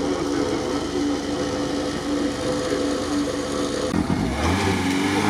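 An off-road vehicle's engine idling steadily. About four seconds in, the sound changes abruptly to a deeper, lower engine drone.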